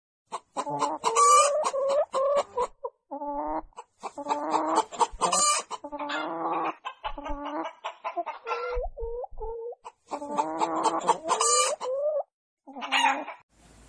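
Hen cackling: runs of quick clucks broken by short pauses, several runs peaking in a louder, higher drawn-out call.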